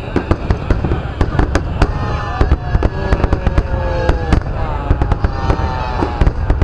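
Aerial fireworks shells bursting: rapid cracks and bangs in quick succession over a steady rumble. Long drawn-out tones slide slowly down in pitch through the middle.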